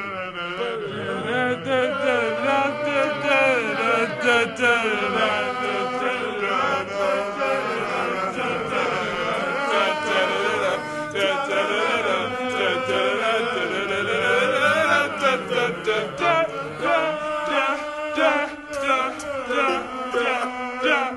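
An a cappella group singing wordless syllables in harmony, several voices together without instruments.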